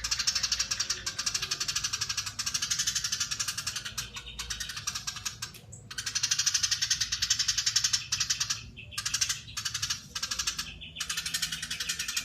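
Eurasian tree sparrow giving long, fast, tightly packed chattering calls: a rapid run of high notes, broken by short pauses a few times.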